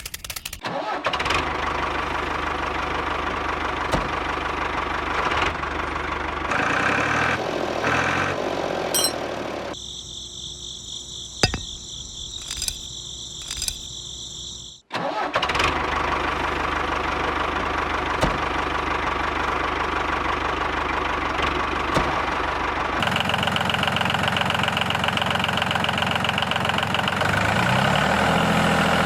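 A small motor running with a steady hum. A few seconds before the middle it gives way to a higher whining for several seconds, then the motor runs again and climbs in pitch near the end.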